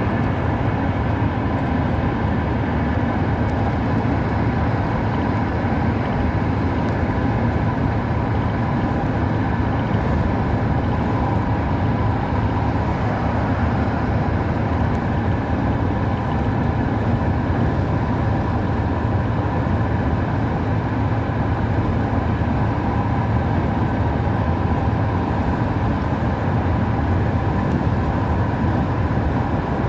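A car being driven, with steady engine and road noise that stays even throughout.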